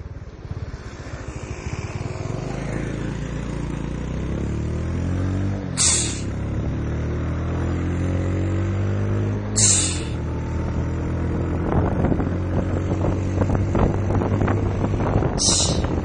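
Turbocharged Yamaha Lagenda 115 single-cylinder four-stroke accelerating hard through the gears. The engine pitch climbs, then drops at each shift. A short, sharp hiss sounds three times as the throttle is closed for a change.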